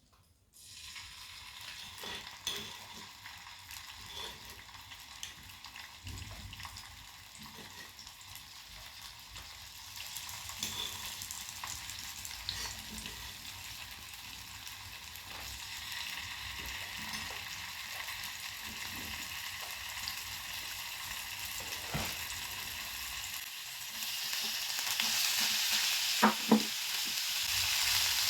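Shredded chicken and ground spice paste sizzling in hot oil in a frying pan while being stirred. The sizzle grows louder near the end, with a few sharp knocks against the pan.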